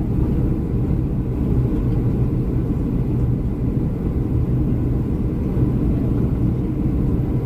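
Steady low rumble of a Boeing 737-300's CFM56-3 engines and airflow, heard inside the passenger cabin.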